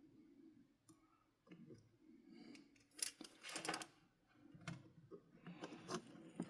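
Faint clicks and scratchy rustling of small wires and plastic toy parts being handled and worked by hand, loudest in a cluster about three seconds in and again near the end.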